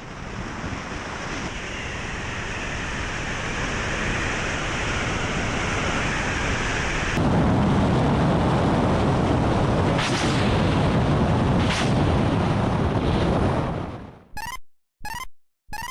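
Mi-28 attack helicopter's rotor and turbine noise in flight, a dense rushing rumble that turns heavier and louder after a sudden cut about seven seconds in. Two sharp cracks about two seconds apart stand out over it. It fades out near the end into a few short electronic beeps.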